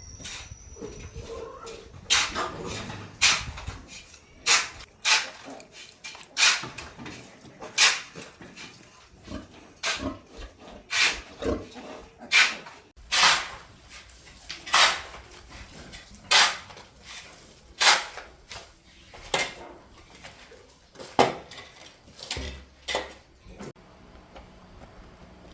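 A run of sharp knocks or scrapes, about one a second and some twenty in all, stopping a couple of seconds before the end.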